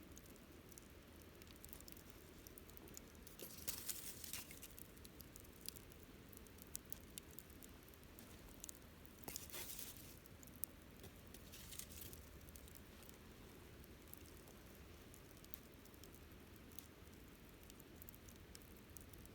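Wood campfire crackling softly, with scattered small pops and two short flurries of louder crackling about four seconds in and again near ten seconds.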